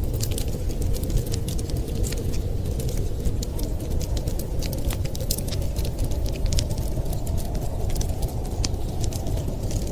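Wood fire crackling, with many small irregular pops and snaps, over a constant low rumble of blizzard wind.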